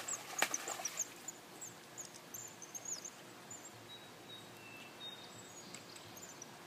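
Faint, short, high bird chirps over low outdoor background noise, with one sharp click about half a second in.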